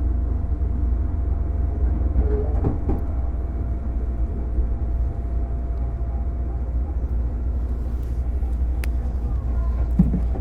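JR 205-series electric train car with MT61 externally-ventilated traction motors heard from inside while running: a steady low rumble with a faint steady whine. A light click and a low knock come near the end.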